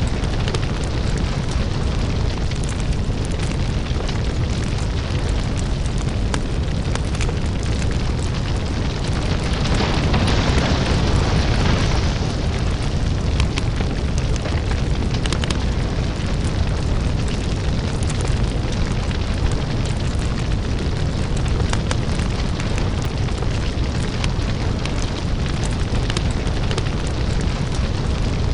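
Crackling lava-fire ambience: a deep, steady rumble under a rush of noise, with many small crackles and pops throughout. A hissing surge swells up a few seconds in and falls back after about two to three seconds.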